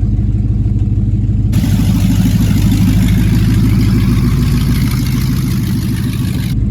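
Chevrolet 454 big-block V8 in a Silverado pickup running at a steady low speed with a fast, even pulsing. A hiss starts suddenly about a second and a half in and cuts off just as suddenly near the end.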